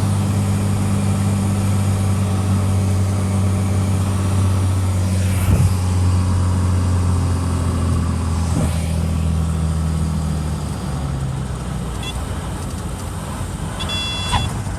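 Cessna 182 piston engine and propeller droning steadily, heard from inside the cabin. About ten seconds in, the drone grows quieter and its steady tones fade. A short, high tone sounds near the end.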